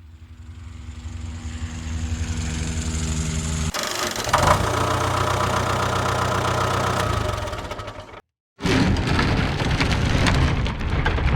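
A string of vehicle engine sound effects. An engine hum fades in and runs steadily, switches abruptly to a different engine sound about four seconds in, then cuts out briefly near eight seconds and comes back as a rougher rumbling.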